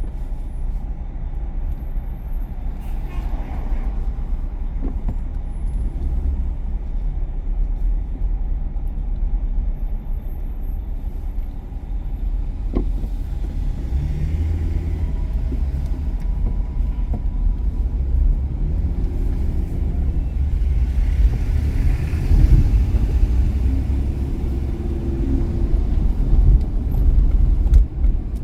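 Car driving on a city street: a steady low rumble of engine and tyre noise.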